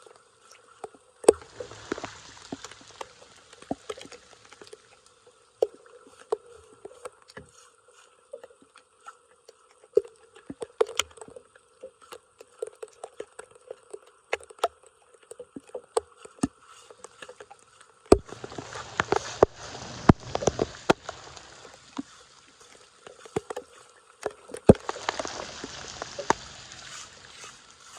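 Floodwater splashing and sloshing around a clogged storm drain, with scattered sharp knocks and clicks throughout. There are two spells of heavier splashing, about two-thirds of the way in and near the end, over a faint steady hum.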